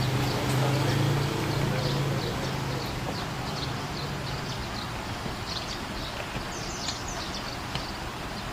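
A small bird gives many short, high, thin chirps, scattered irregularly through the whole stretch. A steady low hum sits under it for about the first half and then fades out.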